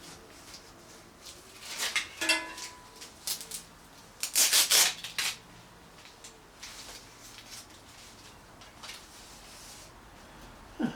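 Workshop handling noises: a couple of sharp clicks about two seconds in, one a short metallic clink, then a brief loud rasp of something being pulled or rubbed about four and a half seconds in, with lighter knocks after.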